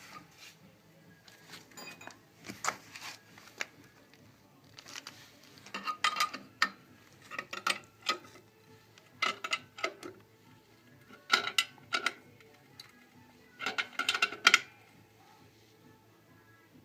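Metal objects clinking and clattering in irregular clusters every second or two, some strikes leaving a brief ringing tone.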